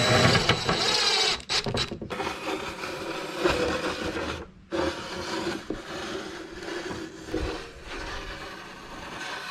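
A marker pen dragged around plywood on a homemade screw-pivoted swivel arm, rubbing and scraping as it traces a circle, with a short pause about four and a half seconds in. A steady high whine fades out in the first second or so.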